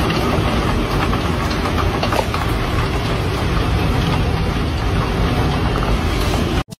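Heavy rain and wind outside a window: a loud, steady rushing roar with a deep rumble underneath, cutting off suddenly near the end.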